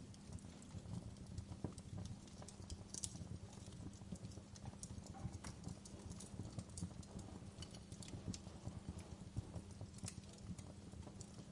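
Wood fire burning, with irregular crackles and a few sharper pops over a low rumble.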